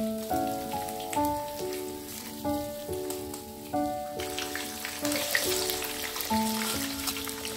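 Instrumental background music with a simple melody of held notes. About halfway through, sliced food is tipped into hot oil in a frying pan and sizzles, a dense crackling hiss.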